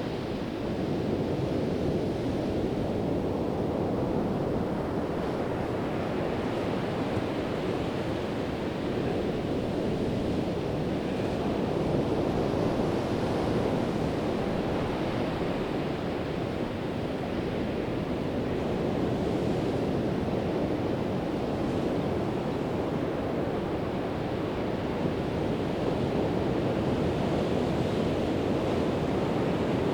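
Pacific Ocean surf breaking and washing onto the beach in a steady rush that swells and eases every few seconds, with some wind buffeting the microphone.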